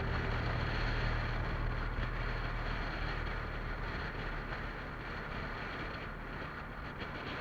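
Motorcycle running at a steady speed under a dense rush of wind on the microphone. The engine's low hum is plain for the first couple of seconds, then fades into the wind, which itself eases a little.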